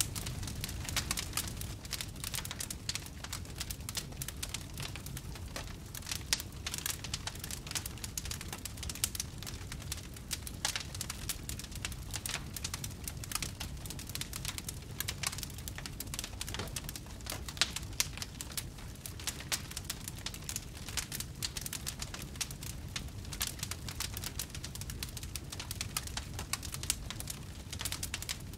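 Wood fire burning in a fireplace, crackling with many quick, irregular pops and snaps over a steady low whoosh of flame.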